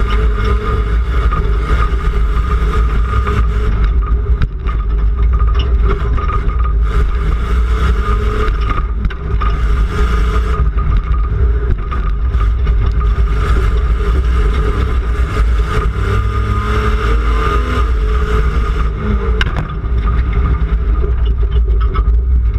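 Rough-truck racing pickup's engine running hard, heard from inside the cab, its pitch rising and falling as it revs over a constant heavy rumble. Short knocks and rattles come through here and there.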